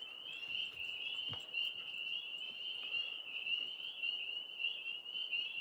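Steady high-pitched trilling chorus of calling animals, a fast pulsing trill that runs on without a break, with a faint click about a second in.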